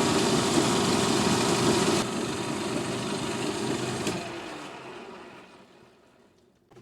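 Metal lathe running, then switched off about two seconds in and winding down, fading away over several seconds.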